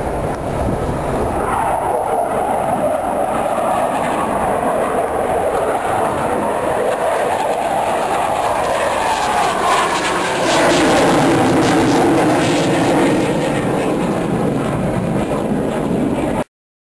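Jet engine noise from Blue Angels F/A-18 Hornets flying past, its pitch sliding as they go by. The sound cuts off abruptly near the end.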